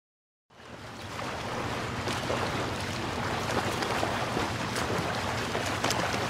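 Sea ambience of waves and water washing, a steady hiss with scattered small clicks and a low hum underneath, starting abruptly about half a second in.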